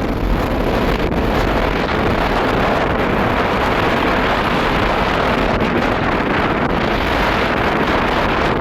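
Jet airliner engine noise, a steady, even rush, with wind buffeting the microphone.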